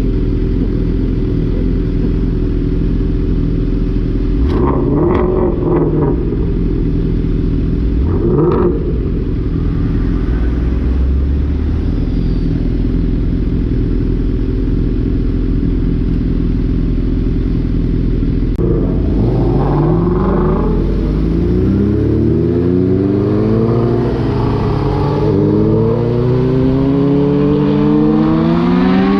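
Suzuki GSX-R750 sport bike's inline-four engine running at a steady speed, with two short rise-and-fall swells in pitch. From about two-thirds in it accelerates hard through the gears: several rising sweeps in pitch, each dropping back at an upshift.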